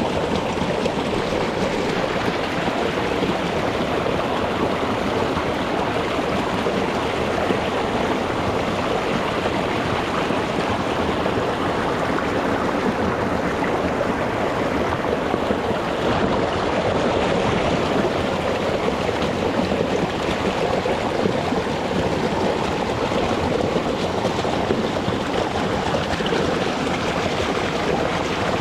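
Shallow rocky mountain stream flowing and burbling over stones, a steady rushing water sound.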